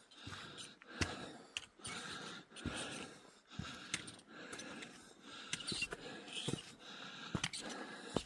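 Footsteps of a hiker walking on a trail, irregular crunching steps, with his breathing heard between them.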